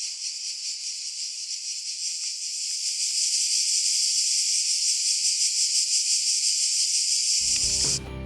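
Cicadas buzzing in a dense, high-pitched chorus that swells a couple of seconds in. Music comes in near the end.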